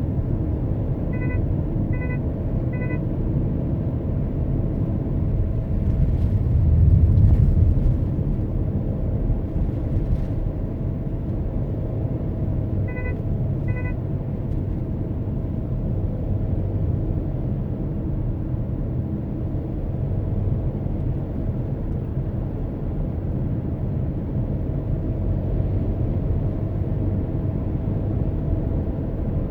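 Car driving, with a steady low road and engine rumble that swells briefly about seven seconds in. Short electronic beeps sound three times near the start and twice more about halfway through.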